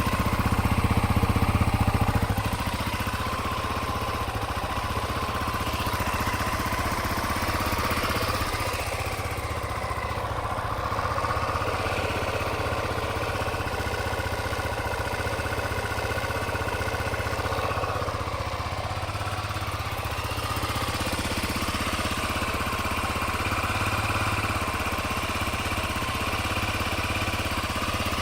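Honda XLR250R Baja's single-cylinder four-stroke engine running at idle, with small rises and dips in engine speed.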